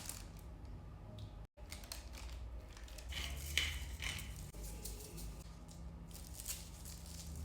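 Kitchen handling noises: light clicks, knocks and rustling over a steady low hum, busiest a few seconds in.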